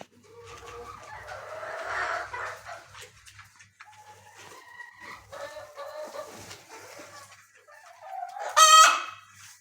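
Chickens clucking and calling, a louder call about two seconds in, and one short, loud squawk near the end.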